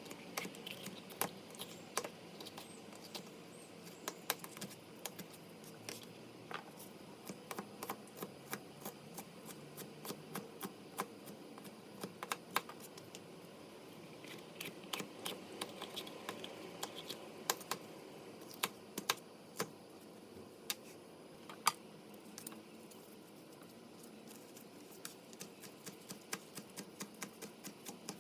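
Irregular light clicks and taps of kitchen food preparation, with utensils and food knocking on hard kitchen surfaces.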